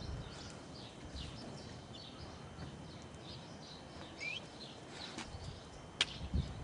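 Small birds chirping repeatedly in the background over a low rumble, with a single sharp knock about six seconds in followed by a couple of dull thuds.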